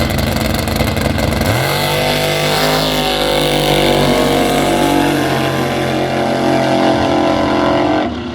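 Drag-racing car engine running hard at full throttle. A loud, pitched engine drone sets in about a second and a half in, rises a little, holds, and drops away near the end.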